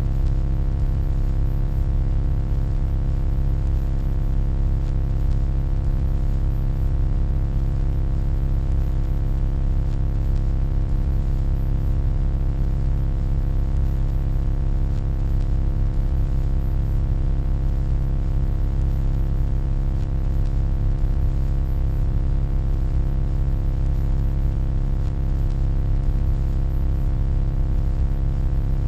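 Steady electronic hum: a deep, unchanging drone with a stack of steady overtones and a faint hiss above it.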